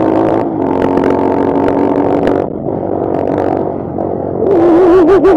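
Bashan Brozz 250 dual-sport motorcycle's single-cylinder engine pulling hard on trail, the revs easing off about two and a half seconds in. Near the end it comes back louder, with the revs wavering quickly up and down, and a few sharp knocks.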